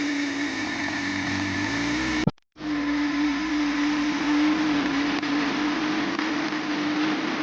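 A steady mechanical drone, a held hum over a wash of noise, broken by a brief gap about two seconds in.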